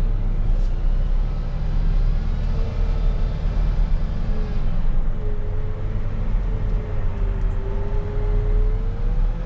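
Diesel engine of a rubber-tire wheel loader running steadily under work, with a whine that rises and falls in pitch.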